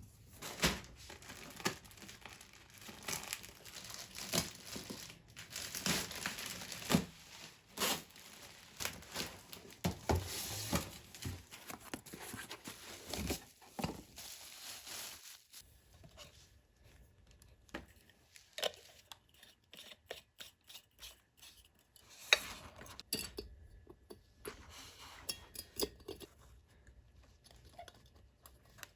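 Paper or plastic being torn and crumpled in the hands, dense at first and then thinning to scattered light clicks and taps.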